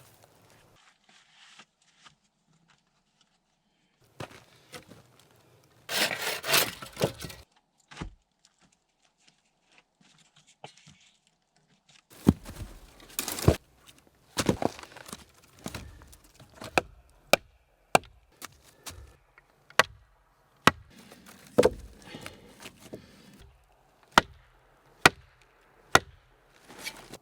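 A brief scraping, rustling burst, then a run of sharp knocks from about halfway through, many of them about a second apart.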